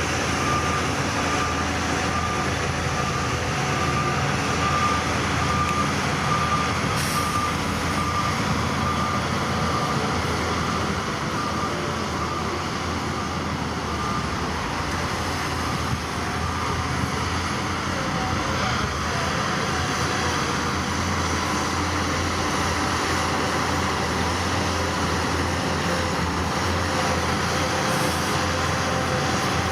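Diesel engine of heavy earthmoving equipment running steadily, with a reversing alarm beeping at an even pace that stops about halfway through.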